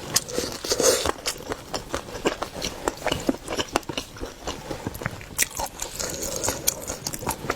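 Close-miked eating of seafood: biting and chewing with many quick, irregular crunchy clicks and wet smacks.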